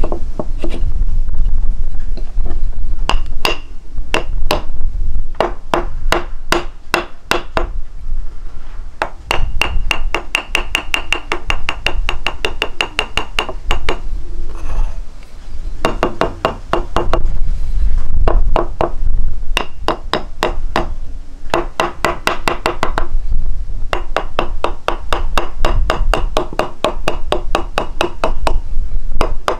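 Rapid repeated striking, about six blows a second, in runs of a few seconds separated by short pauses, with a ringing tone to the blows.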